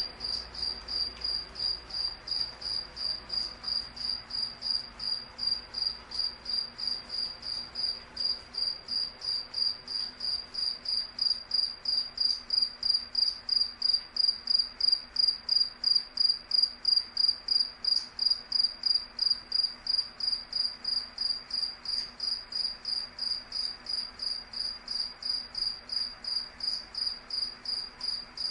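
A cricket chirping steadily, a high-pitched pulse repeating evenly at about three chirps a second, growing louder toward the middle and easing off again near the end.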